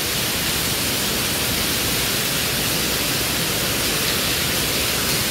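Heavy rain falling on a building's corrugated metal roof deck, a steady even hiss with no let-up.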